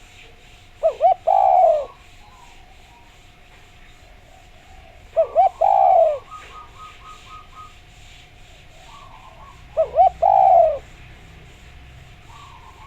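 Spotted dove (derkuku, tekukur) cooing: three phrases about four seconds apart, each two short coos followed by a longer falling coo.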